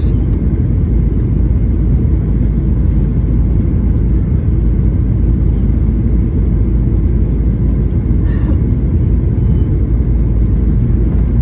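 Steady low roar of a jet airliner's cabin noise, engines and airflow running at an even level, with one short sharper noise about eight seconds in.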